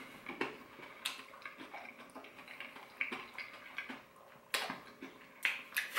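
A person chewing crispy fried chicken: scattered crunches and wet mouth clicks, with a few louder crunches around the middle and near the end.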